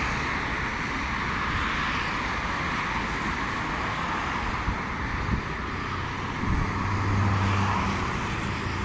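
Steady city traffic noise, with two short knocks about five seconds in and a low hum swelling a little after that.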